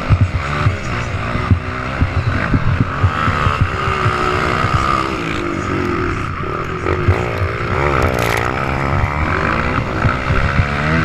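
Motocross bikes' engines revving on the track, the pitch rising and falling as the riders work the throttle, with wind buffeting the microphone.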